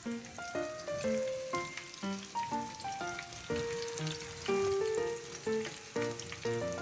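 Breaded chicken drumsticks deep-frying in hot oil, a crackling sizzle, under background music with a quick melody of short notes.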